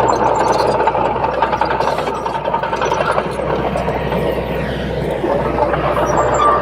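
Crawler bulldozer working: diesel engine running steadily, with the clatter of steel tracks and a faint steady high whine.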